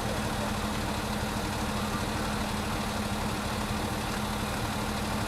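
A vehicle engine idling steadily, a constant low hum with a held tone that does not change.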